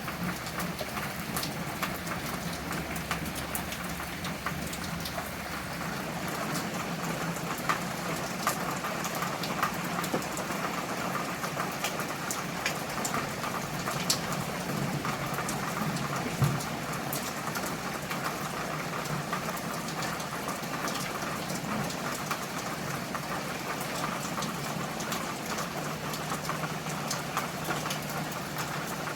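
Steady rain falling, with individual drops ticking sharply on a surface throughout, over a faint low steady hum.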